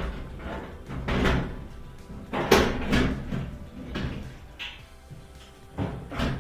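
Irregular clunks and knocks of a dryer's control console panel being handled and fitted back together, the loudest about two and a half seconds in.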